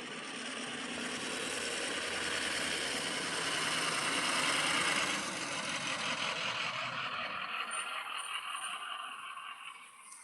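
A vehicle passing by: a steady rushing noise that grows louder to a peak about five seconds in, then fades away.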